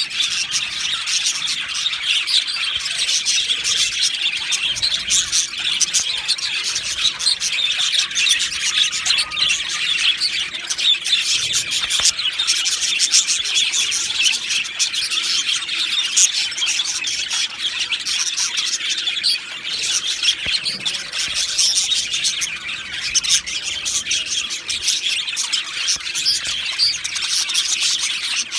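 Budgerigars chattering continuously: a dense, unbroken run of quick chirps, warbles and squawks.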